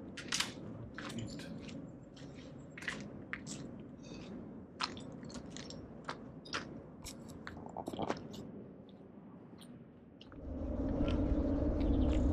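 Footsteps crunching over gritty debris, a run of irregular sharp crunches. About ten seconds in, a steady low rumbling noise comes up and stays.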